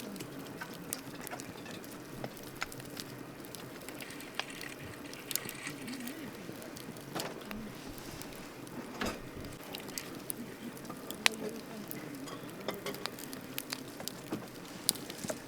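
Campfire burning, wood crackling and popping with irregular sharp snaps over a steady hiss of flame.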